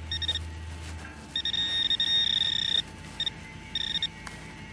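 Metal detector beeping at one steady, fairly high pitch on a buried metal target: a short beep, a long tone of about a second and a half, then several short beeps as the target is found in the loose soil.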